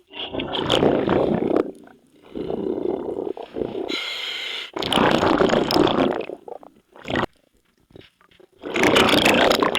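A diver breathing through a scuba regulator underwater: noisy spells of exhaled bubbles, each about a second and a half long, separated by short gaps.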